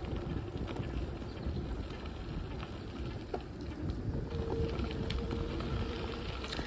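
Bicycle rolling along a rough dirt trail: a steady low rumble with scattered small rattles and clicks from the bike, heard through a bike-mounted camera's microphone.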